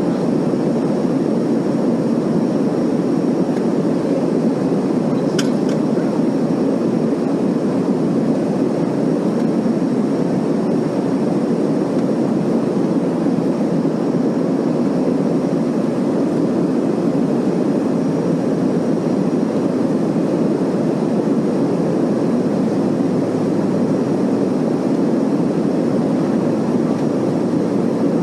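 Steady cabin noise of an airliner in flight: an even rushing drone of engines and airflow, with a brief faint click about five seconds in.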